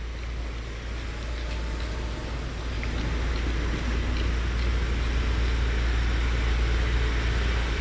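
Car engine idling in reverse gear as the car creeps backward without throttle, a steady low rumble that grows gradually louder.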